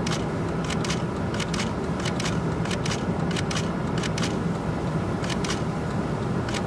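Steady hum inside a vehicle's cabin, with irregular sharp, high crackles or ticks about two to three times a second.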